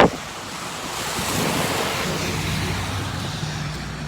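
A car passing on a wet street, its tyre hiss swelling and fading with a low engine hum under it. A brief loud blast of noise comes right at the start.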